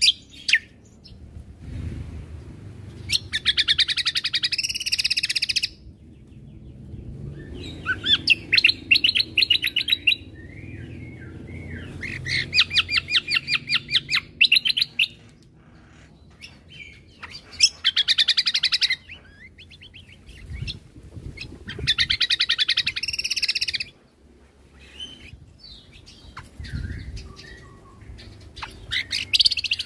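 Cucak kombo (kecial kombo) songbird singing in fast rapid-fire bursts, the 'tembakan' song prized by bird keepers. Each burst is a quick run of high notes lasting about two seconds, and the bursts come back every four to five seconds, with a faint low rumble underneath.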